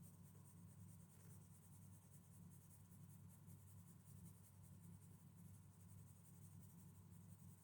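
Faint pencil shading strokes scratching on paper, toning down highlights on a drawing, over a steady low hum.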